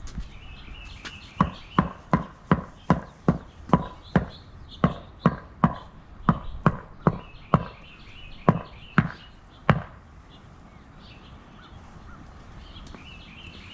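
Homemade wooden mallet tapping patio pavers to level the tilted ones: a run of about eighteen sharp knocks, roughly two a second, which stops about ten seconds in.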